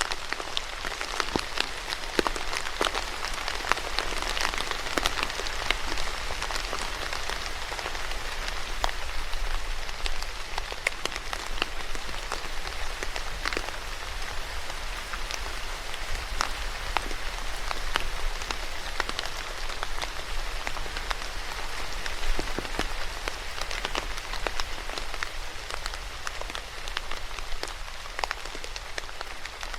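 Steady rain falling on a hard surface, with many separate drops tapping sharply through the constant patter.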